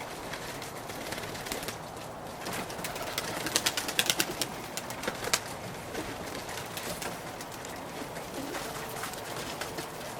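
Pigeons cooing, with a quick run of sharp claps about three to five seconds in.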